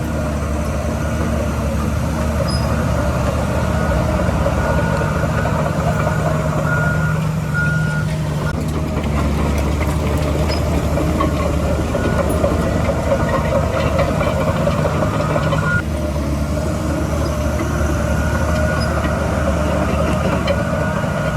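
Heavy diesel construction machinery running steadily with a deep engine hum. A few short reversing-alarm beeps sound about seven seconds in and again near sixteen seconds.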